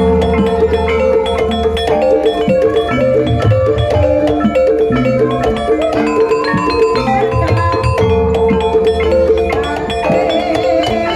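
Javanese ebeg dance accompaniment music: a continuous mallet-struck melody of short stepped notes, a held tone and a low drum beat underneath.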